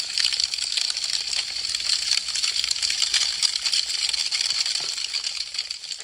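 Wood fire crackling, a dense, continuous stream of small snaps and pops from burning branches.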